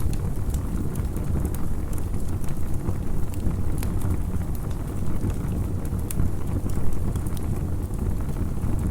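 Campfire crackling: scattered sharp snaps and pops over a steady low rumble.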